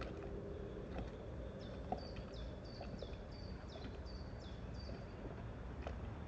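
Outdoor field-recording ambience: a steady low rumble under a bird calling a quick run of short, high, repeated chirps from about one and a half to five seconds in, with a few faint clicks.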